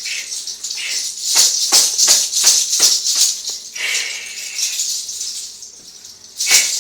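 A bundle of fresh herbs rustling and swishing in a run of quick strokes as it is brushed over a person's head and hair, with one more sharp swish near the end.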